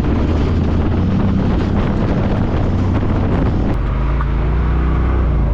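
A side-by-side UTV's engine running as it drives over rough, rocky trail, with frequent knocks and rattles from the machine and ground. About three-quarters of the way in the knocking mostly stops and the engine settles into a steady low hum.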